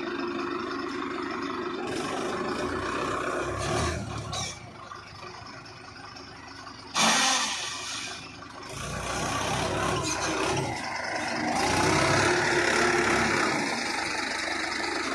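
Diesel tractor engine running and revving, its loudness rising and falling, with a sudden loud surge about halfway through.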